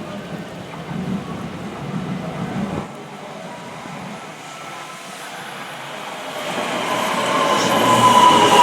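Electric train approaching, growing louder from about six seconds in, with a falling whine over rail noise. A low rumble stops about three seconds in.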